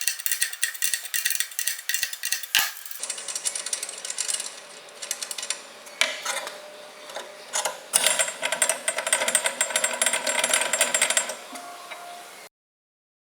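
Hand-tool work on metal: a rapid run of clicking and scraping, with a sharp click about two and a half seconds in and a busier stretch later on, cutting off suddenly near the end.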